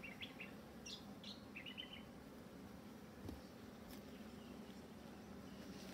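A small bird chirps a quick run of short notes in the first two seconds, over the faint steady hum of honeybees from the opened hive. A soft knock comes a little past halfway.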